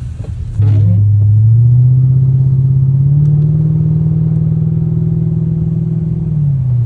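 Mercedes-Benz CL500's 5.0-litre V8 running with its exhaust removed, loud and open. About half a second in it gets suddenly louder as the car accelerates, the engine note climbing for a couple of seconds and then holding, before it eases back down near the end.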